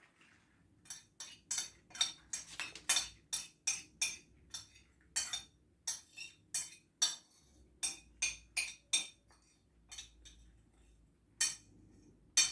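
Whole nutmeg being grated by hand: a run of short scraping strokes, about two to three a second, with a brief pause near the end.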